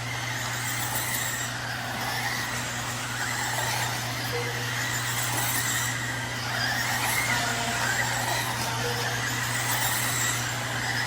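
Electric 1/10 RC sprint cars running on a dirt oval: brushless motors whining, rising and falling in pitch as the cars go around, over a steady hiss. A steady low hum runs underneath.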